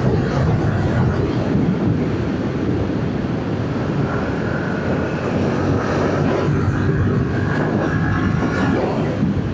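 Yamaha MT-07's parallel-twin engine, on its stock exhaust, running steadily under way, mixed with wind rush on the helmet microphone.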